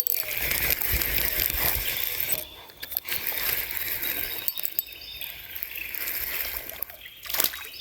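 River water sloshing and splashing at the surface, with a few sharp clicks, as a small fish is brought in by a wading angler.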